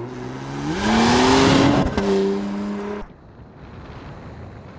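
Porsche Panamera 4 E-Hybrid's twin-turbo V6 accelerating hard, its pitch rising under a loud rush, with an upshift about two seconds in and then steadier running. The sound cuts off abruptly about three seconds in, leaving only a faint steady rush.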